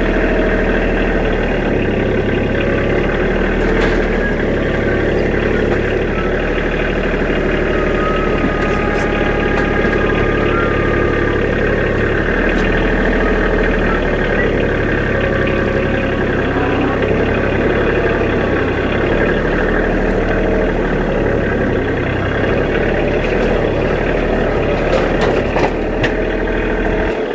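Tractor engine running steadily, its note shifting a few times as the load changes, with a few light knocks.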